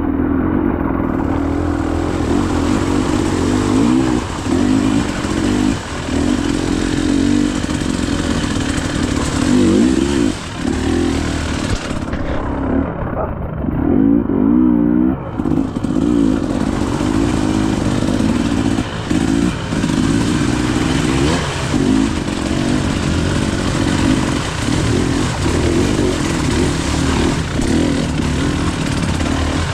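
Enduro dirt bike engine running throughout, revving up and down again and again.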